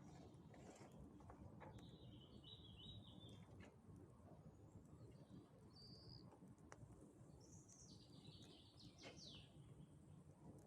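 Faint birdsong outdoors: a few short, chirpy phrases, about two seconds in, around six seconds in, and a longer burst near the end, over a low steady background rumble with a few faint clicks.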